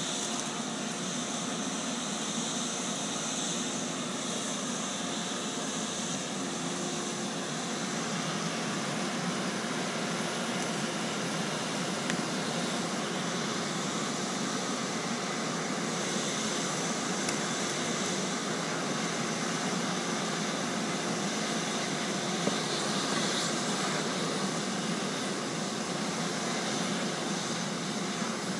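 Steady rushing noise of a running iron-melting furnace and its air blast during a tap, even throughout with a faint hum.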